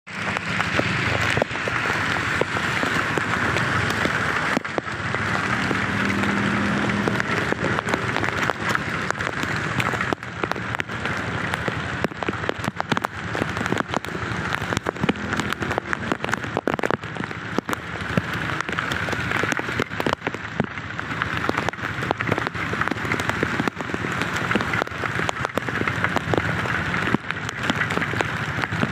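Heavy rain falling, with many sharp drop hits close to the microphone.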